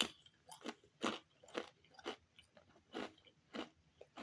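A person chewing crackers: a string of short, dry crunches, about two a second and unevenly spaced.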